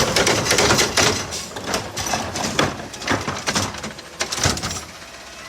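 Heil garbage truck dumping a trash can into its hopper: a rapid series of bangs and clattering as the can is slammed and shaken out, loudest at first and dying away about four and a half seconds in.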